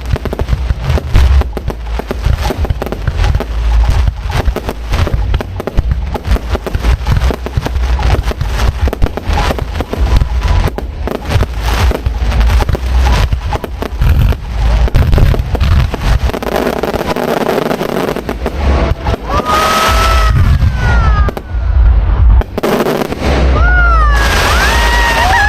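Aerial fireworks display going off close by: a dense, rapid barrage of bangs and crackling over a heavy low rumble. The barrage thins out after about two-thirds of the way, and a few shrill gliding tones come in near the end.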